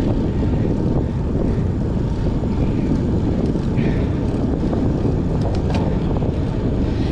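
Wind rushing over the microphone of a camera riding along on a moving bicycle, a steady low rumble, with a few faint clicks about three-quarters of the way in.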